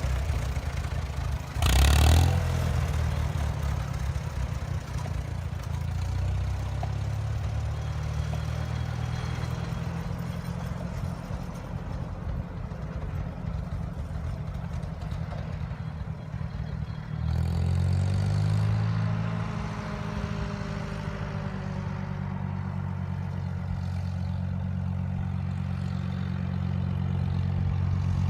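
Farmall M-series tractor engine running at work, with a brief loud burst of noise about two seconds in. The engine speed picks up about two-thirds of the way through.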